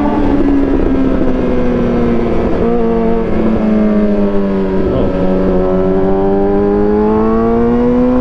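Suzuki GSX-R750 inline-four sportbike engine running at a steady cruise, its pitch sagging a little through the middle and rising again near the end, with wind rumble from riding underneath.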